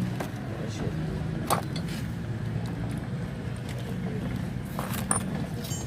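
Motorcycle engine running steadily at idle, with a few short clicks or knocks over it.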